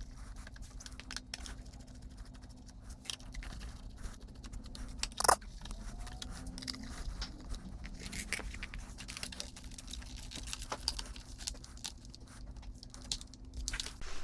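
Irregular clicks, taps and light rattles of plastic parts being handled as an air conditioner is taken apart, over a steady low hum. One sharper knock about five seconds in.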